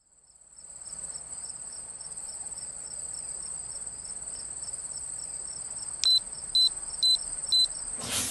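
Crickets chirring in a steady high trill that fades in over the first second. About six seconds in, four short, loud, high electronic beeps sound about half a second apart.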